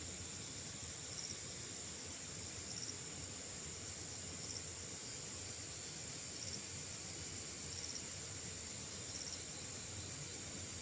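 Insects calling: a steady high drone with short chirps about every one and a half seconds, over a steady hiss.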